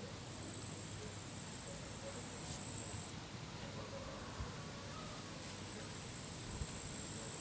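A cricket singing a continuous high-pitched trill for about three seconds, stopping, then starting again about two seconds later. Underneath is a steady low rumble of wind.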